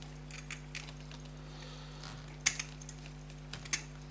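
Light, sharp metallic clicks and taps of a silver pocket watch and its case being handled on a workbench, loudest twice, about two and a half and nearly four seconds in, over a steady low electrical hum.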